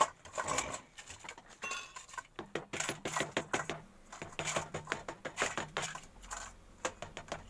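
Repeated light metallic clinks and taps of small engine parts being handled and fitted, as an aluminium cover is set onto a scooter engine's crankcase.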